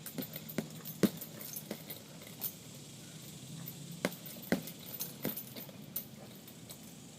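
Boxing gloves punching a heavy bag: a string of sharp, irregular hits, the loudest about a second in and again about four and a half seconds in.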